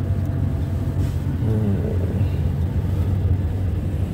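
A vehicle engine running steadily while on the move: a constant low hum with road noise.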